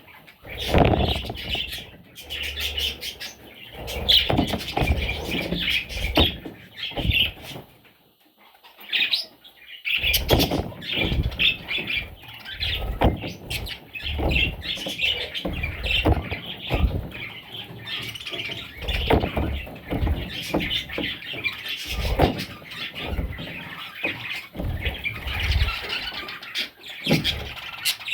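Young budgerigars chirping and squawking almost without pause, mixed with frequent short knocks and bumps. There is a brief lull about eight seconds in.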